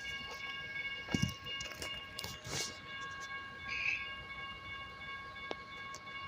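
CN train moving slowly past, with a steady chord of high tones held throughout and scattered clanks and low thuds.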